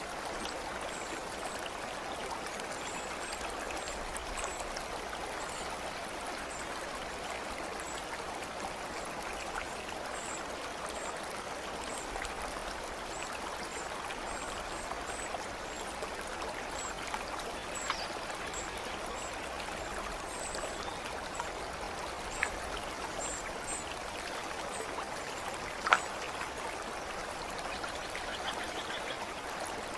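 Stream water flowing steadily, with faint, short, high chirps scattered throughout and a few sharp ticks or drips, the loudest a little before the end.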